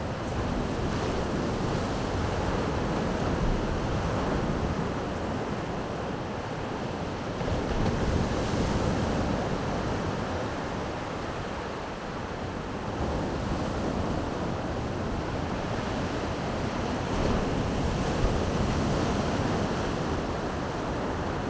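Baltic Sea waves breaking and washing on the shore in slow swells, with wind buffeting the microphone.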